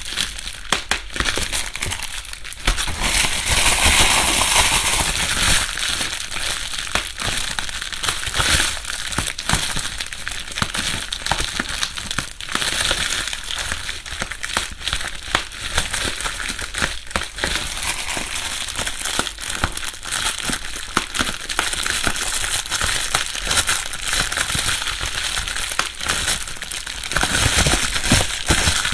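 Plastic bubble wrap being crumpled and rustled in the hands, a dense crackling full of small clicks and pops. It grows louder for a second or two about four seconds in and again near the end.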